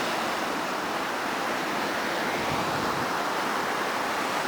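Steady wash of ocean surf on the beach, an even hiss with no distinct events.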